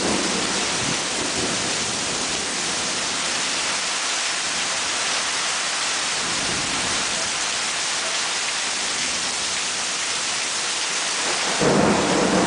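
Heavy rain falling steadily in a thunderstorm. Near the end a louder thunder rumble sets in from a close lightning strike.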